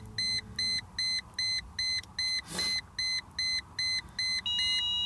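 Rapid electronic beeping from the 2002 Mercedes E320's warning beeper, about three short beeps a second, which the owner takes most likely for the parking sensors. A brief rush of noise comes about halfway through as the start is tried in park, and about four and a half seconds in the beeping gives way to a steady two-note tone.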